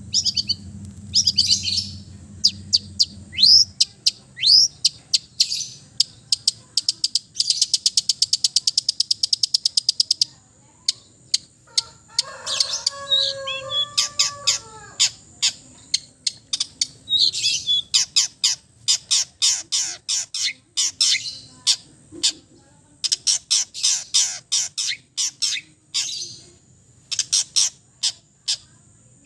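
Long-tailed shrike (cendet) singing a fast, loud run of sharp chips and short slurred notes mixed with mimicked calls of other birds. About eight seconds in it gives a rapid, even trill for a couple of seconds, and a lower, pitched phrase follows around the middle. A faint steady high whine sits behind the song.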